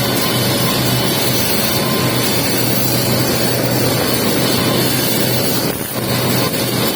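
Welding arc running steadily on the capping pass of a pipe weld: a continuous hiss and crackle over a low buzz. It drops out briefly twice near the end.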